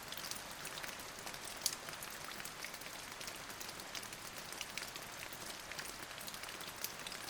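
Steady rain falling, an even hiss with many small drops ticking close by.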